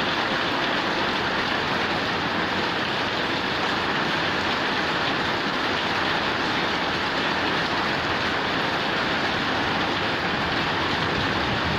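Rain falling steadily on a corrugated zinc roof and into running water: an even, unbroken hiss of many drops, with no single drop standing out.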